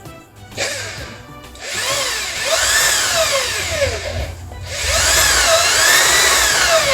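Firo electric hand drill running with no load, its motor whine rising and falling as the trigger is squeezed and eased. The drill nearly stops about four seconds in, then speeds up again.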